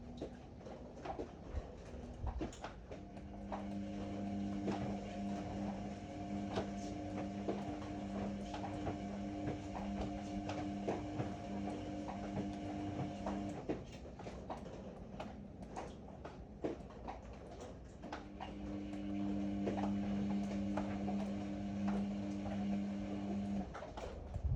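Ariston AML125 washer-dryer turning its drum. The motor hums steadily for about ten seconds, stops for a few seconds, then runs again for about five. Light knocks and clicks from the tumbling drum come throughout.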